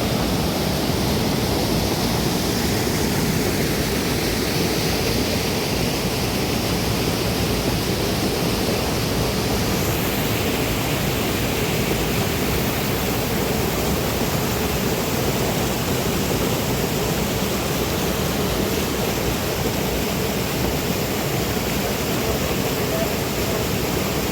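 Steady rush of fast-flowing, rain-swollen river water after a cloudburst, an even noise with no breaks.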